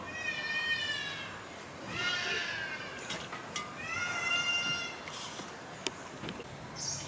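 A domestic cat meowing three times in a row, each meow a drawn-out call that falls slightly in pitch, followed by a few light clicks.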